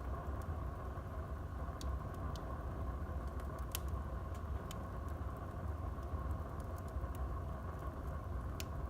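Wood fire burning in a fireplace: a steady low rumble of flame with scattered sharp crackles and pops, the loudest a little under four seconds in and another near the end.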